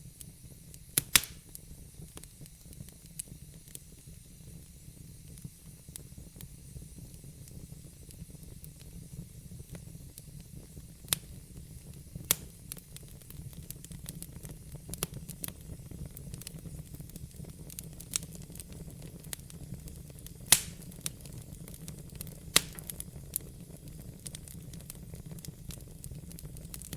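Fire in a fireplace crackling: sharp pops at irregular intervals, the loudest about two-thirds of the way in, over a steady low rumble and faint hiss of the burning fire.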